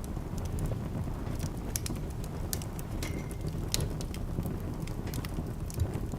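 Wood fire in a fireplace crackling, with irregular sharp pops and snaps over a steady low rumble. A brief, faint whistle sounds about halfway through.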